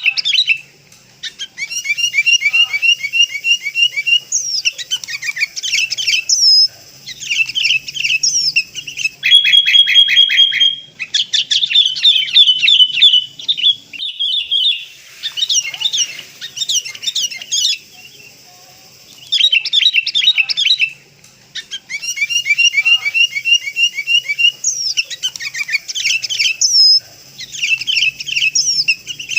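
Sooty-headed bulbul calling: bursts of rapid, high chirping notes, each lasting one to three seconds, with short pauses between them.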